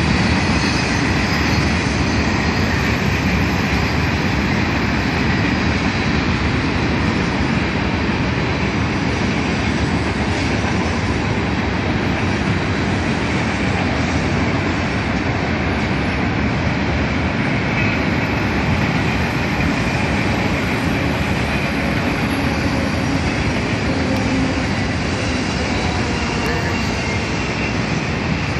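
A freight train's cars rolling steadily past, a continuous rumble of wheels on rail.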